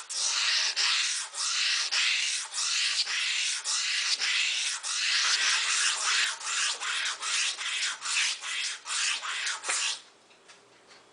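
Steel blade of an old straight razor scraped in quick repeated strokes across a sheet of 320-grit sandpaper: a rough, steady scratching that grinds metal off to remove chips from the edge. It stops near the end.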